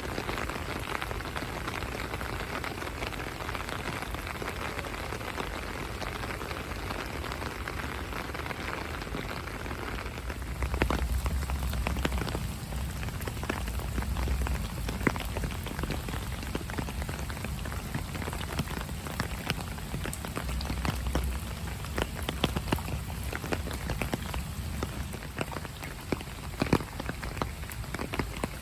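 Steady rain falling, with a dense hiss at first; from about ten seconds in, separate drops and drips strike nearby surfaces sharply over a low rumble.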